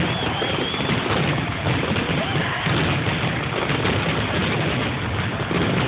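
Fireworks grand finale: many shells bursting in quick succession, their booms and crackles running together into one continuous barrage.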